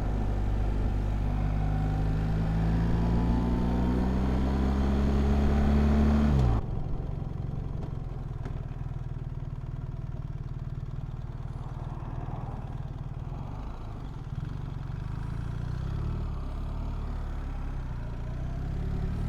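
BMW R1300GS boxer-twin engine pulling under acceleration, its note rising steadily. About six seconds in the throttle closes and the note drops sharply and gets quieter. The engine runs on at a lower, steadier note and starts to climb again near the end.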